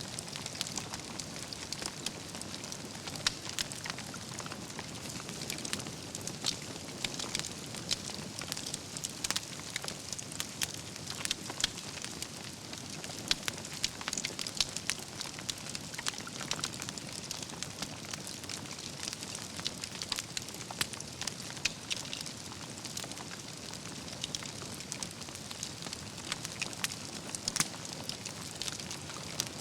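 Wood fire burning steadily, with a continuous soft hiss under dense, irregular crackles and pops from the burning logs.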